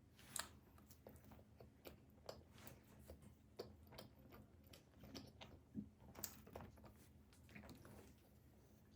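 Close-miked chewing of pizza: irregular small clicks and smacks of the mouth, some louder bites standing out.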